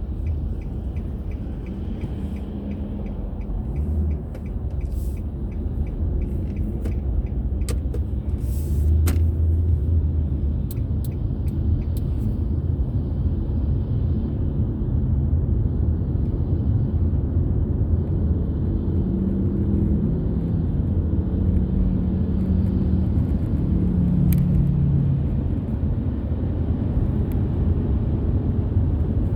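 A car driving on the road: a steady low rumble of engine and tyre noise, with a few brief clicks.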